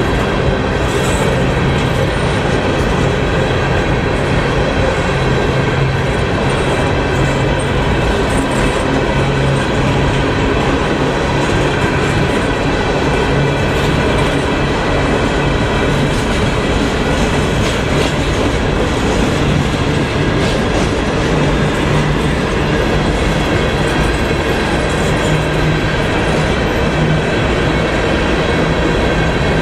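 A train rolling past close by, its wheels running steadily on the rails with a faint high squeal from the wheels.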